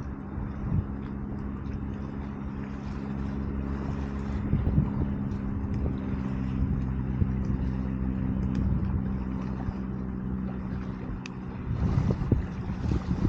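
A motor engine droning steadily at a distance, a low hum of several even tones that fades out near the end, over the faint crackle and snapping of a wood campfire.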